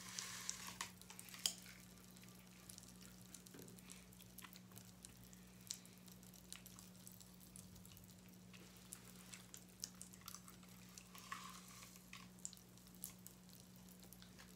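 Near silence: faint, scattered crackles and ticks from candy being eaten out of the packet, over a steady low hum.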